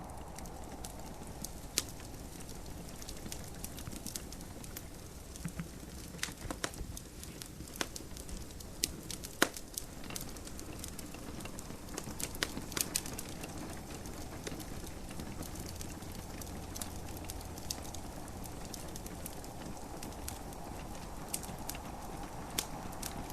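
Wood fire crackling in a fireplace, with irregular sharp pops and snaps scattered throughout, over the steady hiss of gentle rain.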